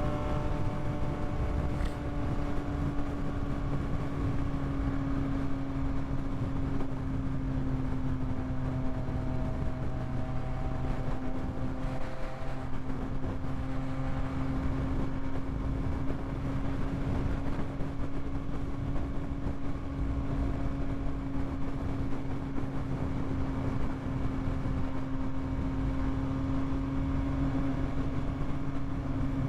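Yamaha MT-09's inline-three engine running at a steady cruising speed, its pitch holding nearly constant with a slight dip about halfway through. Wind rumbles on the microphone throughout.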